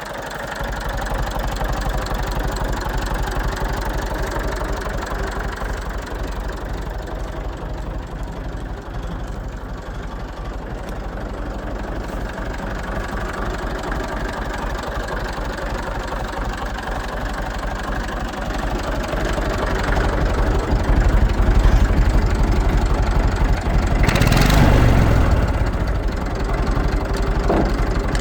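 Massey Ferguson 35 tractor engine idling steadily with a low rumble, growing louder in the second half, with a brief burst of noise near the end.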